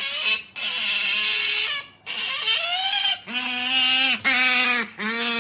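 Otter calling insistently to beg for a snack: about five drawn-out, squealing calls, each up to a second long, the first two high and the later ones lower and steadier.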